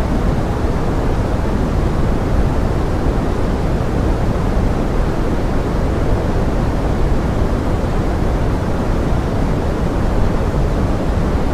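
Steady pink noise, as in a forest-rain sleep track: an even, unbroken hiss with most of its weight in the low end and little treble.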